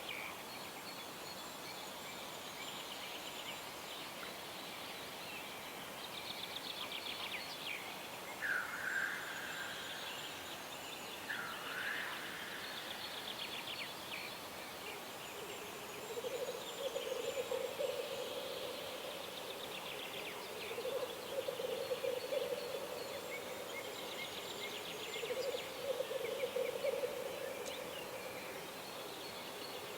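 Several songbirds singing and trilling over a steady outdoor background, with a couple of short slurred calls about a third of the way in. From about halfway a lower bubbling call repeats in phrases of two to three seconds.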